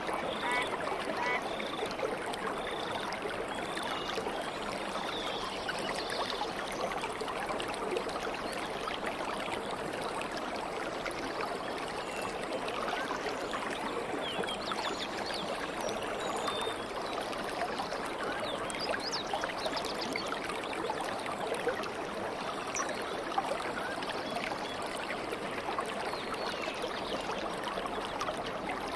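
Stream water babbling steadily. A bird's short call repeats several times in about the first second, and faint bird chirps come and go over the water later on.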